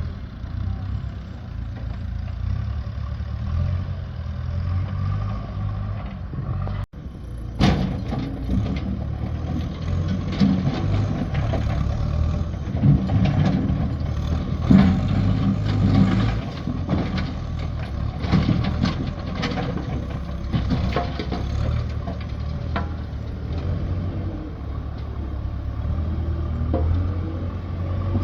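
An engine running steadily. It breaks off for an instant about seven seconds in, then goes on with repeated knocks and clatter over it.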